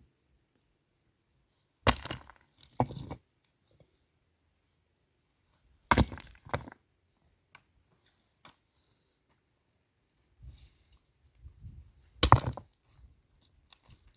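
Five sharp, separate blows: two about a second apart near the start, two more about six seconds in, and a last loud one near the end. Low scraping and handling noise comes just before the last blow.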